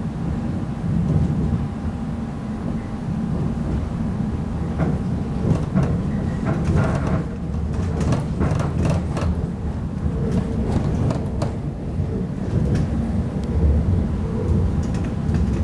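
Interior of a Class 345 electric train running at speed: a steady low rumble from the wheels and running gear with a faint steady whine above it. A run of clicks and knocks comes from about five to twelve seconds in.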